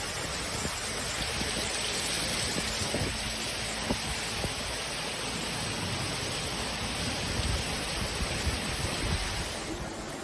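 Steady rushing noise of heavy water, with a few faint knocks; near the end it changes to a duller, lower rush.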